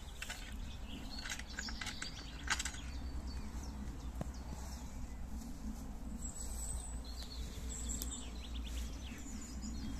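Outdoor ambience of small birds chirping and calling, a cluster of quick chirps in the first few seconds and thin high whistles later, over a steady low background rumble.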